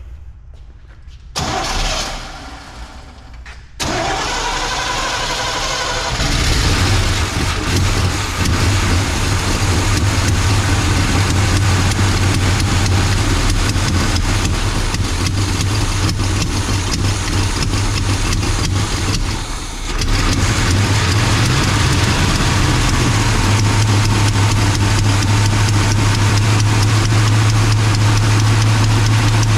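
1984 Chevy C20 truck engine cranked over by the starter, catching and then running steadily. It has a strong low engine note, with one brief drop in level about two-thirds of the way through.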